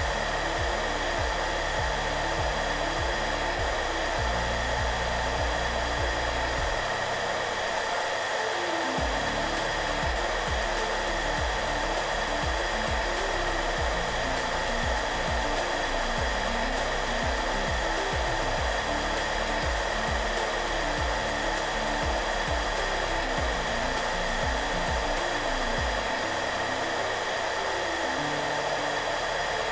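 Hairdryer running steadily, a constant airy rush with a whine, under soft background music with low notes that change and pulse.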